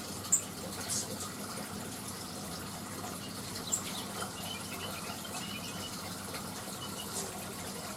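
A steady rush like running water, with a few brief, high bird chirps: one sharp chirp just after the start, another a little before the middle, and faint short notes in between and near the end.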